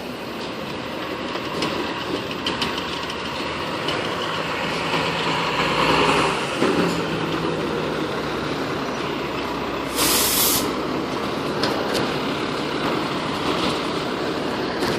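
FDNY fire engine's diesel engine running, its pitch dropping and settling to a steady idle about seven seconds in. About ten seconds in there is a short, sharp hiss of the air brakes.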